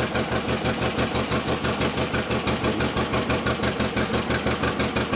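The two-cylinder engine of a 1955 John Deere 40 S tractor, freshly started and idling steadily. It makes an even, rapid putt-putt of about eight beats a second.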